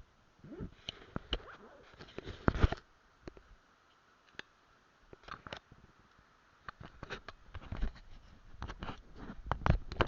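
Close, muffled handling noise on the microphone: irregular clicks, knocks and rubbing, growing busier toward the end.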